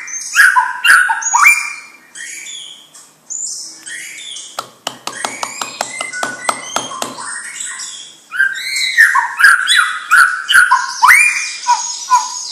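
White-rumped shama singing: loud, varied whistled phrases with rising sweeps, broken near the middle by a couple of seconds of rapid clicking before the phrases resume.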